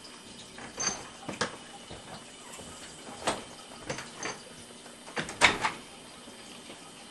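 A series of irregular short knocks and scrapes, about eight in all, the loudest cluster about five and a half seconds in.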